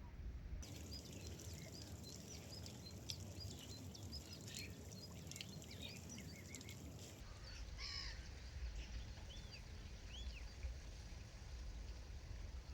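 Gulls calling: many short, high, arching cries in a busy cluster, then a few spaced single calls later on, over a low steady rumble.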